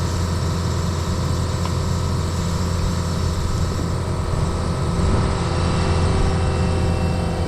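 An engine running steadily at idle, a low hum with a slight rise in level about five seconds in.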